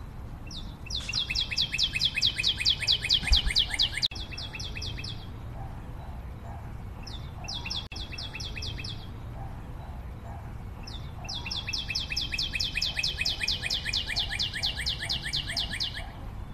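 A bird singing fast, high trills of about ten notes a second, in three bouts: a long one at the start, a short one in the middle and a long one near the end. Each bout drifts slightly lower in pitch as it goes.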